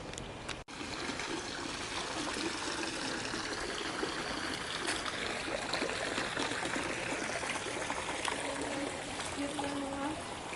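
Water trickling and splashing steadily, as from the inflow of a koi pond.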